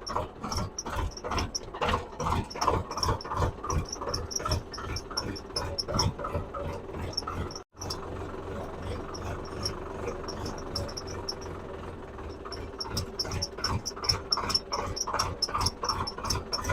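Tractor running as it pulls the row-marking implement through the field, with a steady engine tone and many irregular knocks and thumps. The sound drops out for a moment about eight seconds in.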